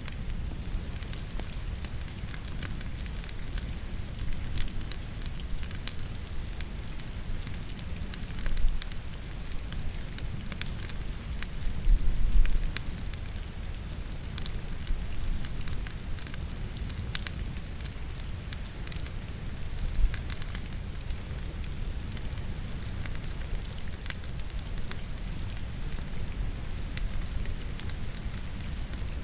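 Wood logs burning in a fireplace, crackling and popping with many sharp snaps, over a steady rain. A few heavier low thuds come around a third of the way in and again near the middle.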